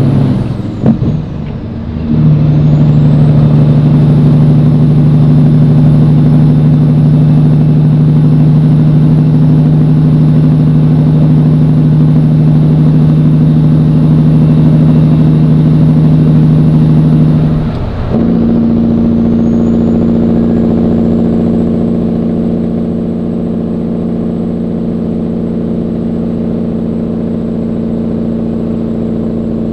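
Cat 3406E diesel in a Peterbilt pulling under load up a grade, exhaling through 7-inch stacks with AeroTurbine mufflers. The engine note breaks briefly about two seconds in and again about eighteen seconds in, as at gear changes, and each time a high whistle rises and then holds steady. The engine gets a little quieter in the last several seconds.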